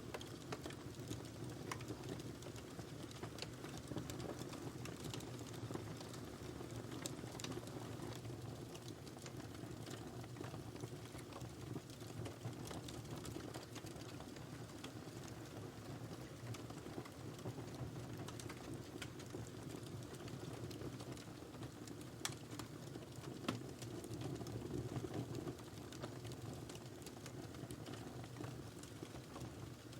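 Wood fire burning in a fireplace: a steady low rumble of the flames with scattered small crackles and pops, and two sharper pops about a second apart roughly two-thirds of the way through.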